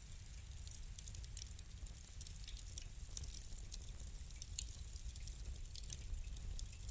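Wood fire crackling: irregular sharp snaps and pops several times a second over a low steady rumble of the flames, with one louder pop a little past halfway.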